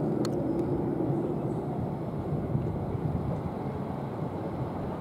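A South Western Railway Class 455 electric train passing: a steady rumble, with a faint whine that fades out in the first second or so, the whole sound slowly dying away.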